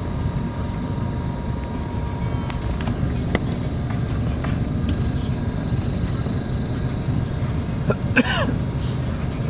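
Steady low rumble of a Scania K410IB coach running, heard from inside the passenger cabin, with a brief falling squeal about eight seconds in.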